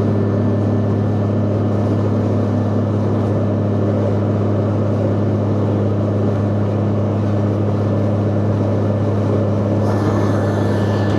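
Motorcycle engine running at a steady, unchanging speed, as when cruising, with a constant low hum and rushing noise.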